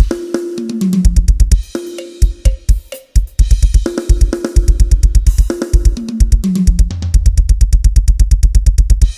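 Drum kit playing a sound-check pattern: fast, even bass-drum runs of about eight kicks a second, broken by tom fills that step down in pitch, with cymbal and hi-hat strikes over them. It stops abruptly near the end, leaving a cymbal ringing out.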